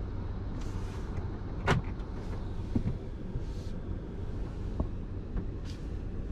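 Car cabin interior: low engine and road rumble as the car rolls slowly into a parking space, with a few sharp clicks, the loudest about two seconds in.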